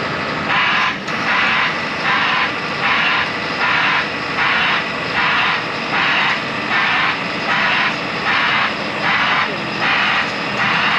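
Heavy equipment's broadband hissing travel/backup alarm pulsing about once every 0.8 seconds over a diesel engine running, the warning that the machine is moving: the 55,000 lb excavator being driven off the truck.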